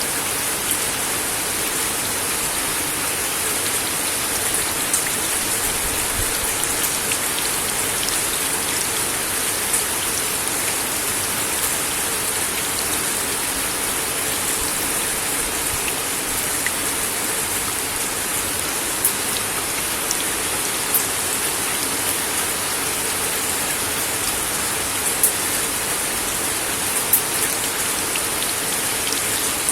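Steady rain falling on a wooden deck, a constant hiss with individual drops ticking sharply on the boards every second or two.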